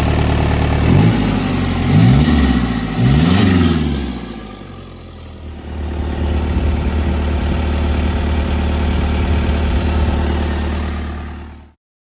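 Mazda WLT 2.5-litre turbo diesel engine idling, revved three times in quick succession about a second in, then settling back to a steady idle before the sound cuts off suddenly near the end.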